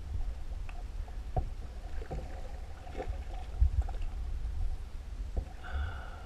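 Sounds of a canoe on a river: a few light knocks and some water noise over a low rumble, with a brief high-pitched tone a little before the end.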